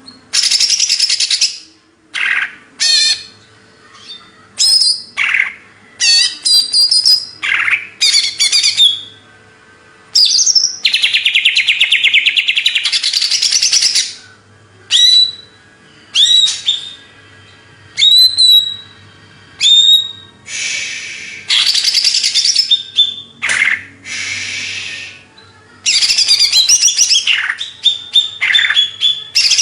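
Greater green leafbird (cucak ijo) singing hard in loud bursts: long runs of rapid chattering trills a few seconds each, alternating with short, sharp whistled notes.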